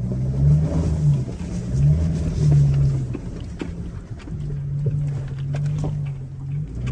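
Subaru Outback's engine running as the car drives up a dirt trail, its note rising and falling in swells as the throttle changes. Scattered light clicks and knocks sound over it.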